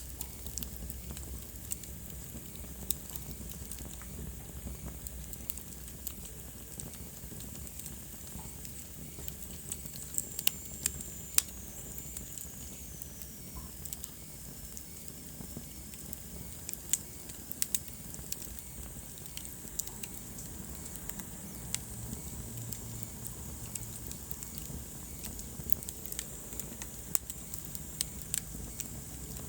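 Wood fire crackling, with irregular sharp pops and snaps over a low, steady rumble of the flames. About ten seconds in, a faint high whistle slides down in pitch.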